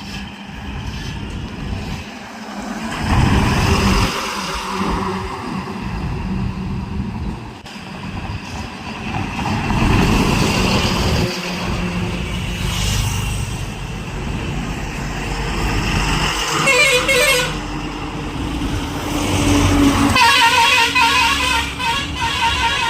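Highway traffic: trucks and other vehicles passing one after another, engines and tyres swelling and fading, with vehicle horns honking.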